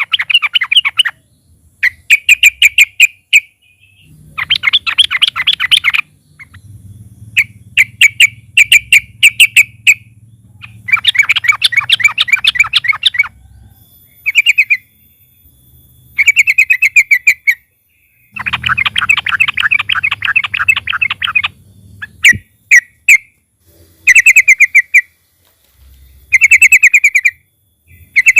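Yellow-vented bulbul (trucukan) singing loud, rapid chattering phrases, each a quick run of repeated notes lasting from under a second to about three seconds, with short pauses between them.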